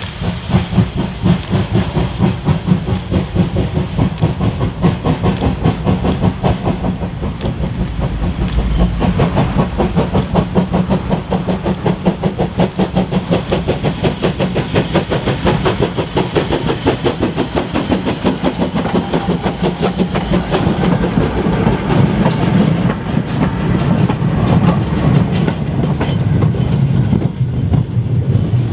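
Steam locomotive running on the line, with a rapid, even beat and a hiss of steam.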